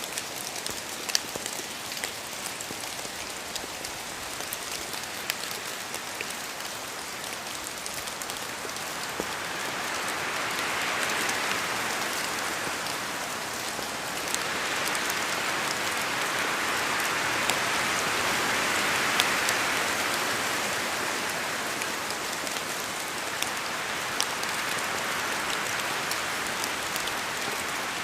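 Steady rain falling in a forest, with individual drops ticking sharply on the surfaces close by. Wind rises through the trees twice, about a third of the way in and again past the middle, swelling the hiss and then easing off.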